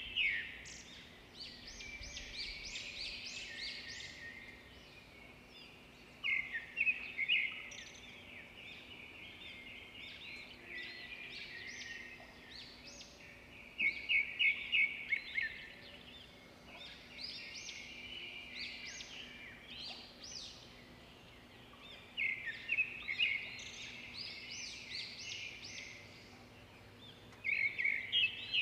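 Wild birds calling: bouts of rapid, high chattering notes recur every several seconds, with quieter calls in between.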